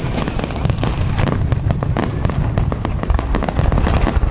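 Fireworks crackling: many rapid, sharp pops over a steady low rumble.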